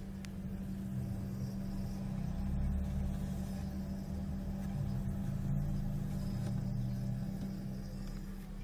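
A small electric motor running with a steady low hum that swells slightly in the middle.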